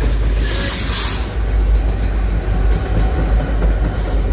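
Loaded coal train passing close by: a steady heavy rumble of steel wheels on rail as the hopper cars give way to the mid-train distributed-power EMD SD70ACe diesel locomotives. A burst of hiss comes about half a second in, with shorter ones a little past two seconds and near the end.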